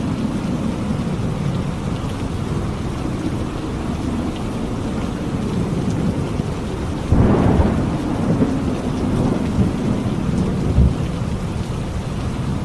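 Steady heavy rain with a clap of thunder a little past halfway, its rumble rolling on for a few seconds, and a smaller thud of thunder near the end.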